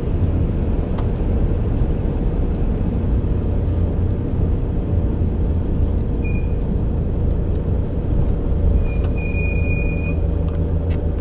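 Steady low rumble of a vehicle on the move, with a short high squeak about six seconds in and a longer one about nine seconds in.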